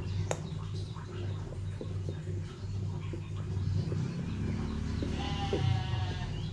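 A bleat from a goat or sheep, one drawn-out call about five seconds in, over a steady low rumble, with a sharp click near the start.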